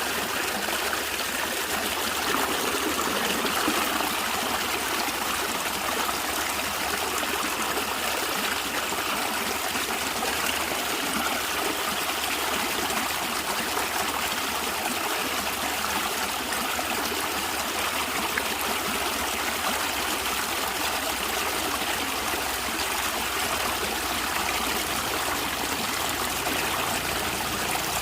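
A natural stream of water flowing and gurgling steadily.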